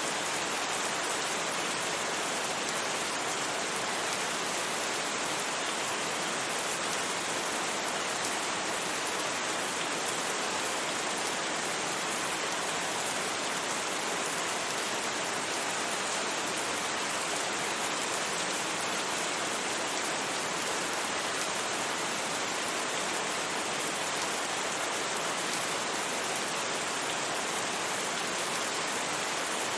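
Steady rain, an even hiss that holds the same level throughout, with no thunder.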